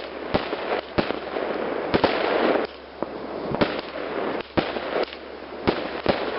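Fireworks going off: a string of sharp bangs, roughly one a second, over continuous crackling. About two seconds in there is a dense fizzing burst that cuts off suddenly.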